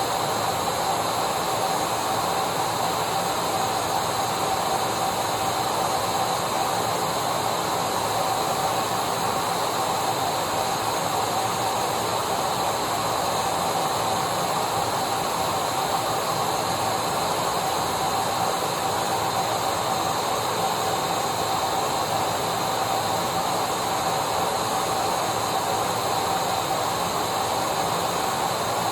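Vacuum cleaner motor running steadily: an unbroken rush of air with a constant whine on top.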